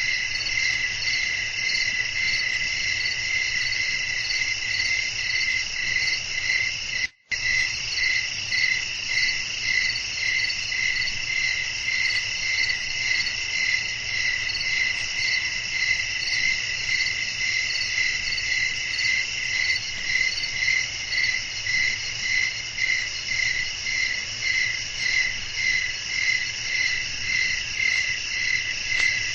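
Night chorus of crickets chirping: a steady, high, evenly pulsing trill that runs on without a break. The sound cuts out completely for a split second about seven seconds in.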